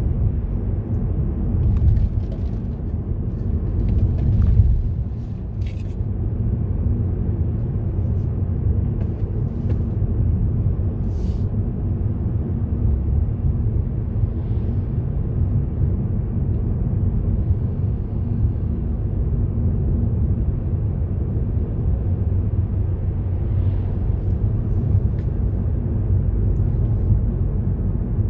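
A car driving along a road: a steady low rumble of engine and tyre noise, with a few faint clicks and knocks.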